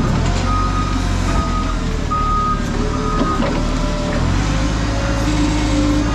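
A yard vehicle's reversing alarm beeps about four times at an even pace, then stops about three and a half seconds in. Its engine runs with a steady low rumble underneath.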